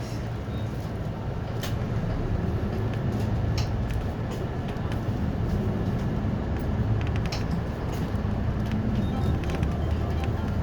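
City bus engine and drivetrain running as the bus pulls away from a stop, a steady low drone heard from inside the cabin, with a few sharp rattling clicks.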